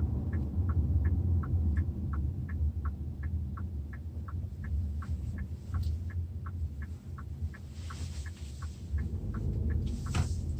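Hyundai Tucson NX4 turn-signal indicator ticking in a steady tick-tock, about three ticks a second: the blinker is on for a left turn. Under it runs the low rumble of the car driving, heard inside the cabin.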